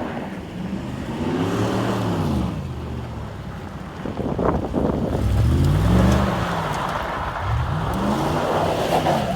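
A pickup truck's engine revving up and back down three times, loud.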